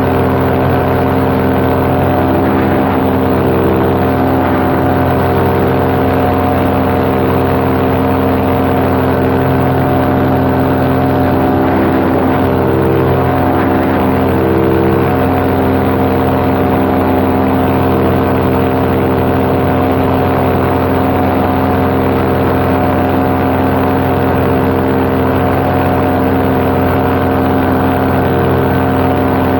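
Paramotor's backpack engine and propeller running at steady cruise power in flight, a loud constant drone holding one pitch.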